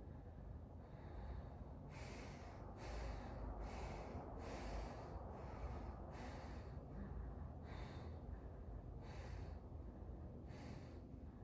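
A person doing fast, rhythmic diaphragmatic breathing: a string of short, sharp breaths about one a second, spacing out a little toward the end.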